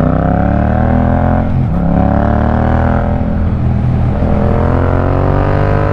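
Yamaha MT-07's 689 cc parallel-twin engine through an Akrapovic carbon full exhaust, accelerating hard: the revs climb, dip briefly at a gear change twice, and climb again.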